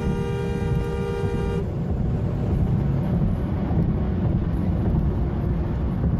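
Car horn held in one long steady note that cuts off about one and a half seconds in, over a steady low rumble of vehicle noise.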